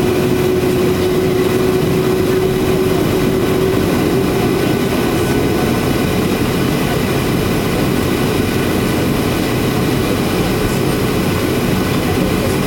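Steady cabin noise inside a Boeing 737-800 airliner: a continuous rushing hum, with a humming tone that fades out in the first few seconds.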